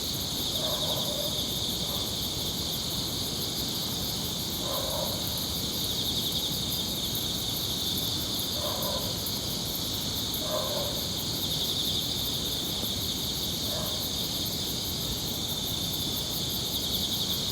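Forest insects, crickets or similar, chirring steadily in a high, fast pulsing chorus. About five short, fainter calls sound lower down, spread through the stretch.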